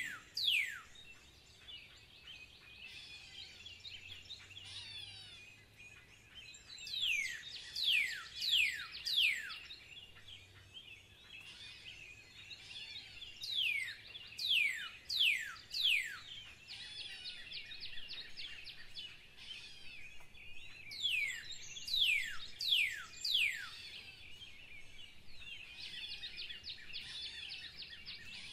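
Songbirds: one bird sings a run of five to seven sharp down-slurred whistles about every seven seconds, over steady twittering from other birds.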